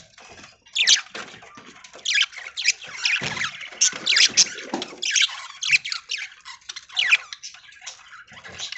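A flock of budgerigars chattering: many short chirps and squawks in quick, irregular succession.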